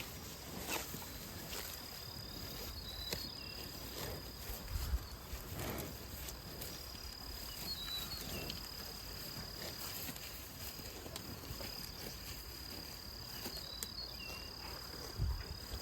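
A cricket-type insect trilling on one steady high note that carries on unbroken. It sounds over a low background rumble with scattered soft rustles and a few faint short chirps.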